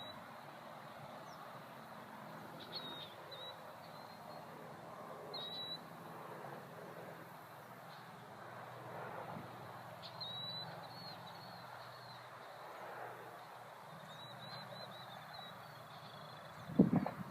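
A small bird giving short, high chirps every few seconds, and one loud knock near the end.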